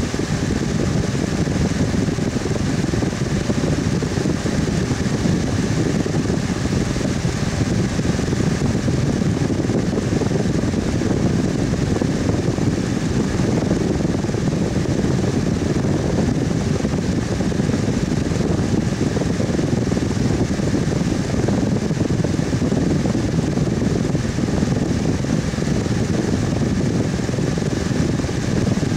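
Electric fan running steadily: a constant low whooshing rush of moving air with a faint steady hum of the motor.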